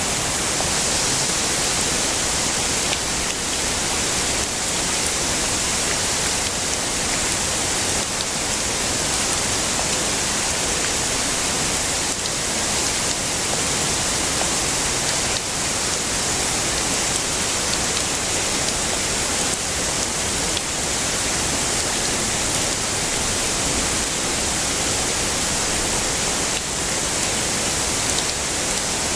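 Heavy rain falling steadily: an even hiss, brightest in the treble, with no breaks.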